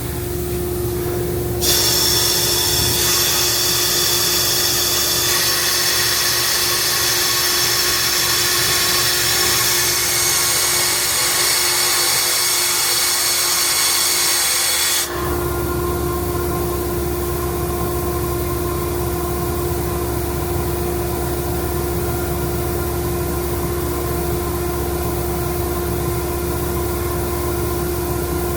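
Ingersoll Rand 50 hp rotary screw air compressor running with a steady hum. Just under two seconds in, a loud hiss of rushing compressed air starts and the low drone eases off; about halfway through the hiss cuts off suddenly and the steady running hum returns.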